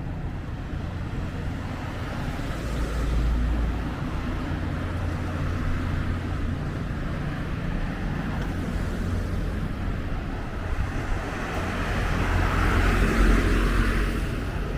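City road traffic: a steady hum of road noise with vehicles passing by, swelling about three seconds in and again near the end.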